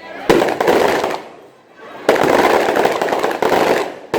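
Strings of firecrackers going off in rapid crackling bursts: one starts about a third of a second in and lasts about a second, and a longer one starts about two seconds in.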